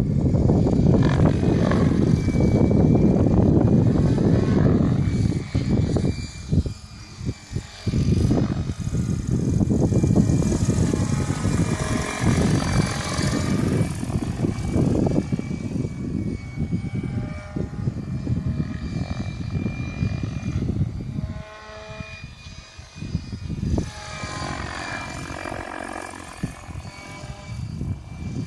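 Mikado Logo 600 electric RC helicopter in flight: a loud rotor rush with a motor whine that rises and falls in pitch. The sound swells and fades as the helicopter moves, dropping away for a couple of seconds about a quarter of the way in and again about three-quarters through.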